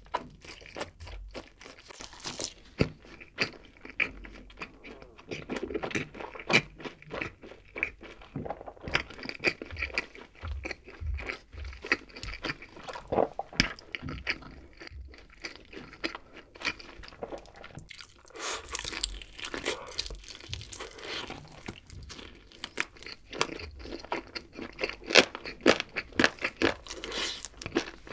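Close-miked chewing of barbecue-glazed chicken wings: a steady run of sharp, crackly crunches and wet mouth sounds, busiest about two-thirds of the way in and again near the end.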